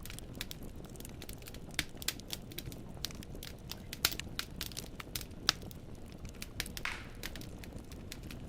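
Wood fire in a fireplace crackling: logs popping in many sharp, irregular snaps over a steady low rumble, with a brief hiss about seven seconds in.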